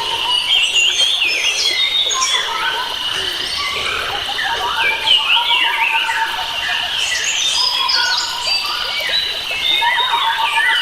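Chorus of many wild birds chirping and trilling at once, in dense overlapping calls, over a steady high-pitched insect-like drone.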